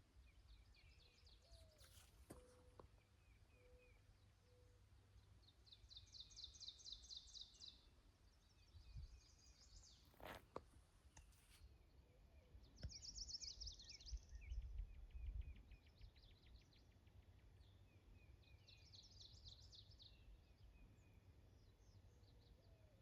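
Faint birdsong: short high trills every six or seven seconds, over a low rumble, with two sharp clicks.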